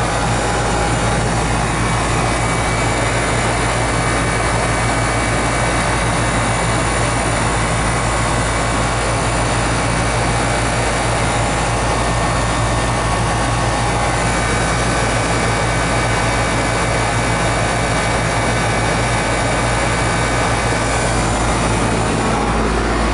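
Twenty-year-old air-conditioning condensing unit running steadily: a constant low hum with steady tones over an even rush of noise.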